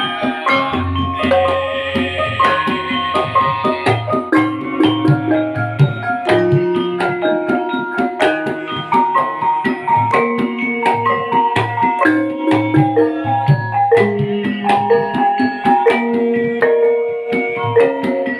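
A Javanese gamelan ensemble plays: bronze metallophones strike interlocking sustained notes over hand-drum (kendang) beats. A deep low note rings for about three seconds near the start.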